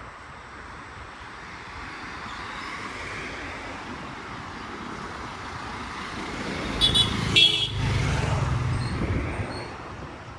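Road traffic running steadily, with two short vehicle horn beeps about seven seconds in, followed by a vehicle passing with a low rumble.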